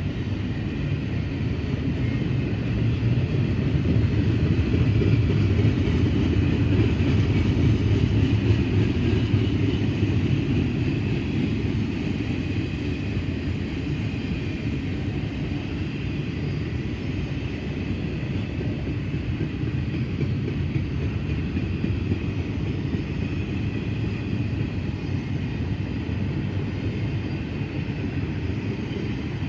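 Freight train rolling past with a continuous rumble of wheels on rail, loudest from about four to ten seconds in and then steady.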